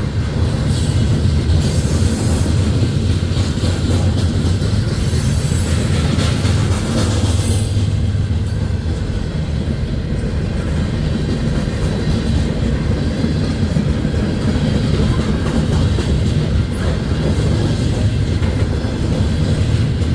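Freight cars of a passing manifest train rolling by at steady speed: a continuous low rumble of wheels on rail, with high-pitched wheel squeal during roughly the first seven seconds.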